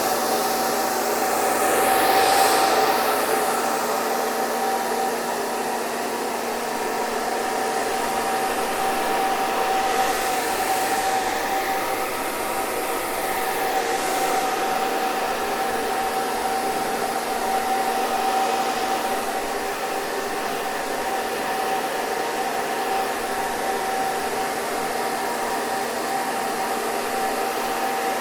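Hair dryer running steadily: a rush of blown air with a steady motor hum through it. The airflow swells briefly about two seconds in and shifts slowly in the hiss a little later.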